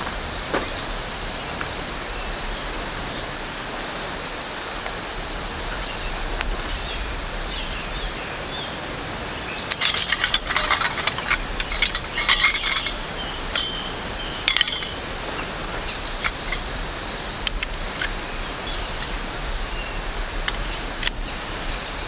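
Outdoor ambience of birds chirping over a steady hiss and a constant high insect drone. A flurry of sharp, louder chirps comes about ten seconds in and another a few seconds later.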